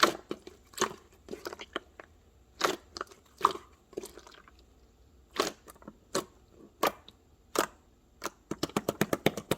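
Corn being bitten and chewed: separate crisp crunching bites about once a second, then a fast run of small crisp clicks near the end.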